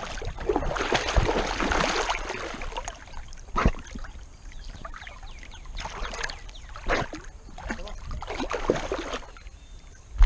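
Water splashing and sloshing in uneven surges as a dog paddles, picked up close by a GoPro mounted on its harness, with a few sharp knocks.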